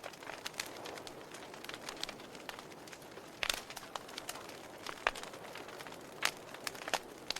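Wood fire crackling in a fireplace: irregular sharp pops and snaps over a soft steady hiss, with a few louder pops around the middle and toward the end.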